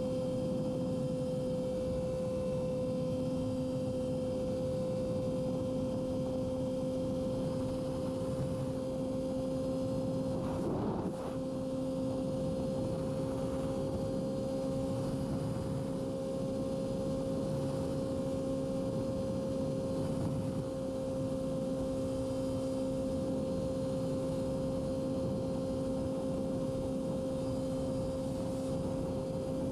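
Yamaha R6 inline-four sport-bike engine holding a steady, high-revving note at constant speed, over wind and road noise. There is a brief break in the note about eleven seconds in.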